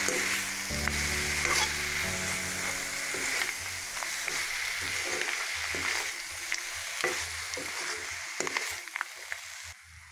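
Crab and roselle leaf curry sizzling in a non-stick pan while a spatula stirs it, scraping and clicking against the pan. The sizzle drops away just before the end.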